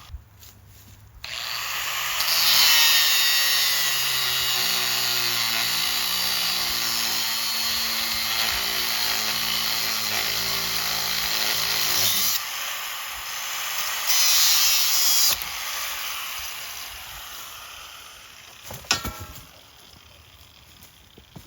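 Angle grinder cutting through a steel sucker rod: the motor starts about a second in, then a loud, hissing grind carries on for about ten seconds. After a short drop there is a second, briefer burst of cutting, and the grinder winds down, with a click near the end.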